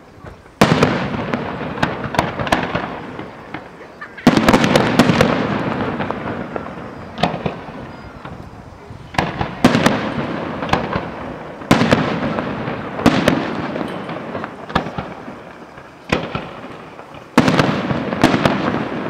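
Fireworks display: about ten shells bursting, one every one to three seconds, each a sharp bang followed by a crackling tail that fades over a second or two.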